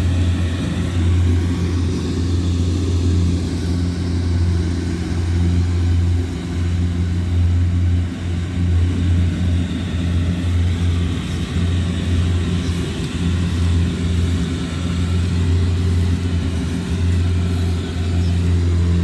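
Kubota DC-70G Plus combine harvester's diesel engine running steadily under load, a deep even drone with slight rises and dips in level.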